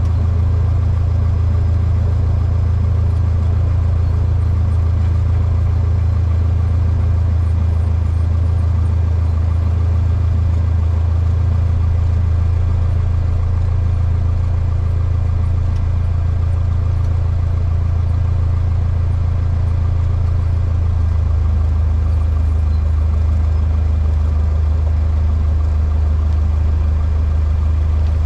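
Cessna 152's four-cylinder Lycoming O-235 engine and propeller droning steadily in flight, heard from inside the cockpit. The low engine note drops slightly about three-quarters of the way through.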